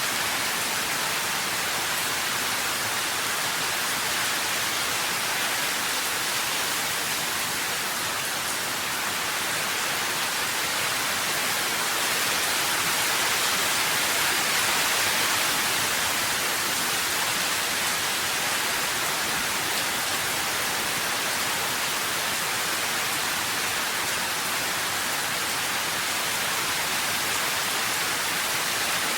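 Steady rain, an even hiss with no separate drops or thunder standing out, swelling slightly about halfway through.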